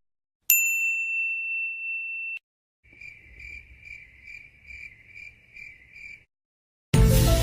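A stock sound-effect sequence. First a single high beep that is held about two seconds and cut off, then crickets chirping about eight times at an even pace, like the 'awkward silence' meme effect. Music starts suddenly near the end.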